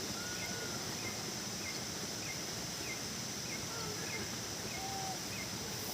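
Outdoor ambience: a steady high insect drone with faint bird chirps repeating about three times a second and a few whistled calls.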